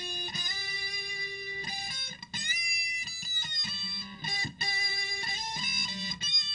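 Heavily distorted electric guitar, a Fender Telecaster through a Boss DS-1 at full distortion and a Boss DD-7 digital delay with the feedback at about 2 o'clock, played through a Peavey Rage 158 practice amp. Held single notes and short phrases, with one note bent in pitch about two and a half seconds in; the high delay feedback gives the harsh, metallic Metal Zone-like tone.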